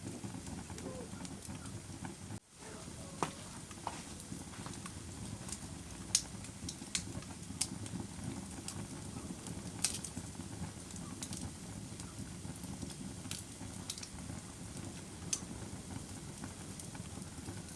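Wood fire burning in a fireplace: a steady low rumble of flames with scattered sharp crackles and pops. The sound drops out for an instant about two and a half seconds in.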